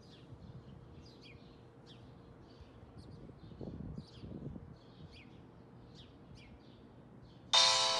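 Small birds chirping again and again over a faint low street rumble. Near the end, a loud bell-like chime strikes suddenly and rings on.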